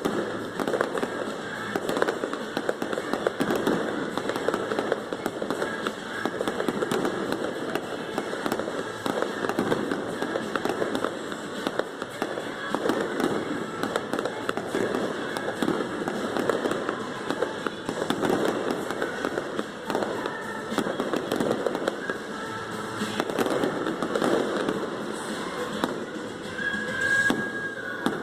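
Fireworks display: a rapid, unbroken barrage of bangs and crackling bursts, with pop music playing underneath.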